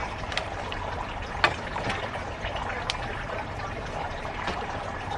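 Steady patter of rain, with a few sharp clicks and knocks from the handling of a potted plant, the loudest about one and a half seconds in.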